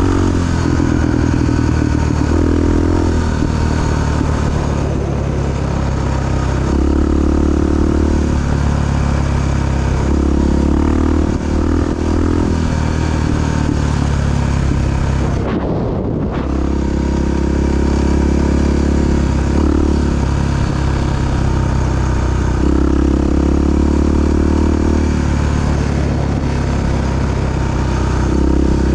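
Honda XR big single-cylinder four-stroke dual-sport motorcycle being ridden, its engine note rising and falling in steps with throttle and gear changes.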